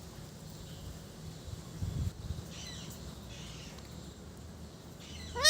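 Parrot making a few faint, high chirps, with a brief low bump about two seconds in. Right at the end it lets out a loud, rising squawk.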